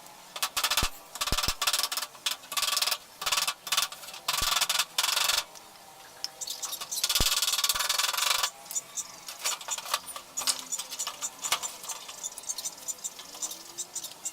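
Hand work on washing machine parts: a series of rough rubbing or scraping strokes, one lasting over a second in the middle, with sharp clicks and knocks in between.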